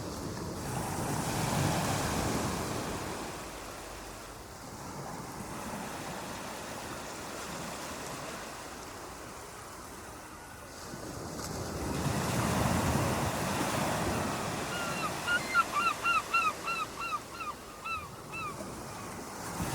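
Ocean waves washing onto a beach, with two surges swelling and falling away about ten seconds apart. Near the end a bird gives a quick run of about a dozen short calls.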